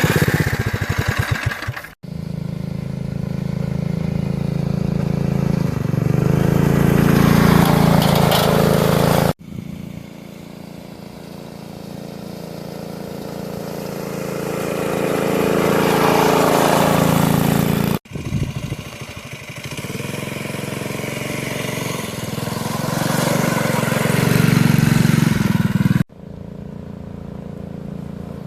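The small engine of a 3x3 offroad mini bike runs under load as the bike is ridden, its note rising and falling as it revs and passes. The sound breaks off abruptly four times, where separate takes are cut together.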